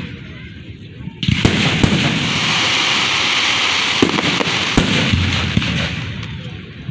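Fireworks going off close by. About a second in a loud crackling hiss starts and lasts several seconds, with several sharp bangs through it, then it fades near the end.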